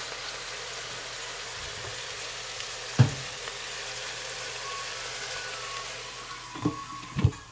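Sliced beets and onions sizzling steadily in hot oil in a pot. There is a sharp knock about three seconds in, then near the end a glass lid clanks twice going onto the pot, and the sizzle drops once it is covered.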